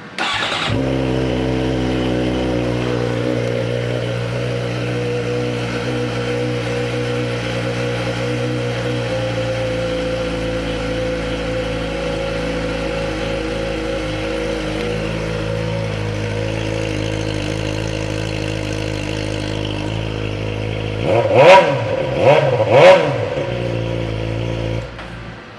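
2011 Suzuki GSX-R600's inline-four engine, fitted with an aftermarket shorty exhaust, starting after a brief crank and settling into a steady idle. Near the end it is revved three times in quick succession, up and back down, then idles a moment more and is shut off.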